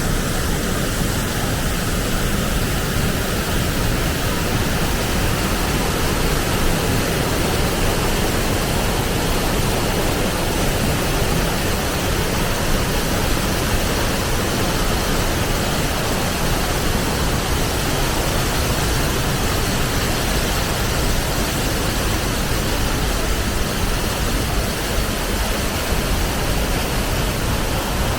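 A mountain stream rushing over rocks, a loud, steady roar of water with no breaks.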